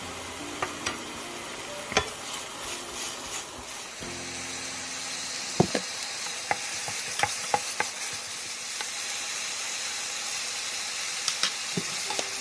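Minced garlic and green onion sizzling in oil in a nonstick frying pan, stirred with a wooden spatula that scrapes and knocks against the pan several times. The sizzle grows a little louder about halfway through.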